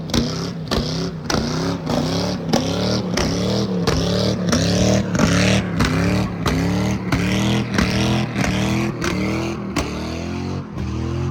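A car engine revved again and again in quick blips, each one rising in pitch, about two a second, with sharp cracks and pops from the exhaust between them.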